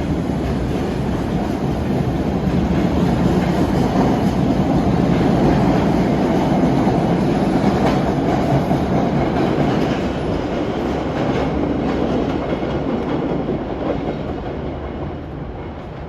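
A train running through the station, swelling to its loudest about five seconds in, then fading toward the end.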